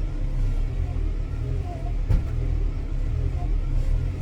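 Old Ford tractor engine running with a steady low rumble, with a short knock about two seconds in.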